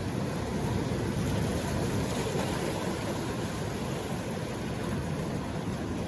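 Steady rushing noise with no distinct events, heaviest in the low range.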